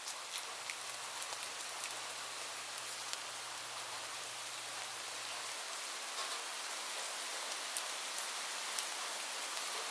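Steady rain falling, with scattered sharp drop ticks; a few louder ones come near the end.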